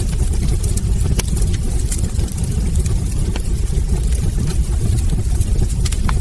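Wood fire burning in a fireplace: a steady low rumble of the flames with frequent sharp crackles and small pops from the burning logs.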